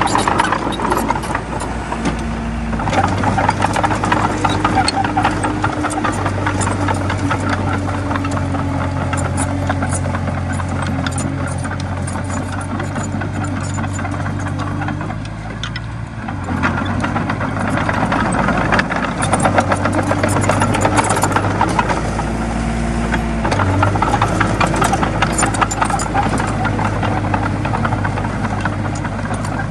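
Komatsu D20A bulldozer's diesel engine running hard while pushing soil, its note dropping and rising again several times as the load changes, over a steady clattering rattle.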